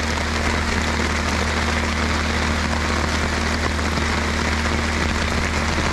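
Steady rain falling on a tent and its tarp, with a low machine hum underneath.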